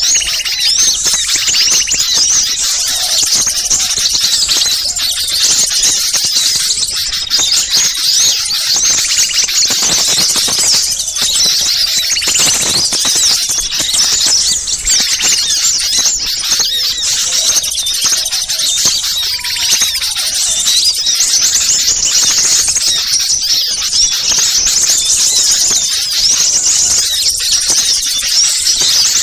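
Dense chorus of many small birds calling at once, a continuous high-pitched twittering and chattering: a bird-lure recording of agitated small birds used to draw wild small birds in.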